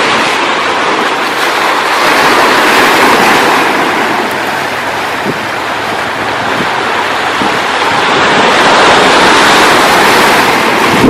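Sea surf washing on the shore as a loud, continuous rush that swells and eases twice.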